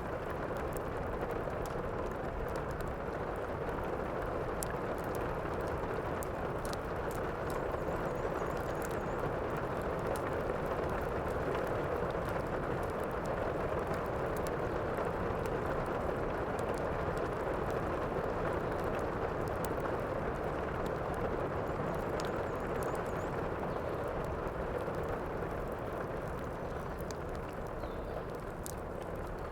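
Steady, heavy rain with the scattered sharp snaps of a crackling wood fire.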